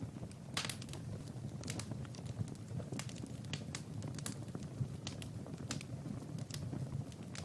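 Wood fire crackling in a fireplace: irregular sharp pops and snaps over a low, steady rush of the flames.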